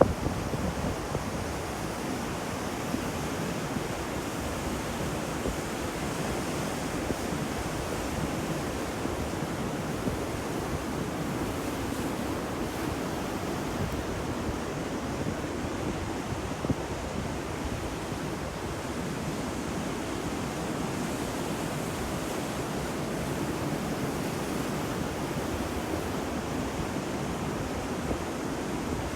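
Ocean surf, a steady wash of waves.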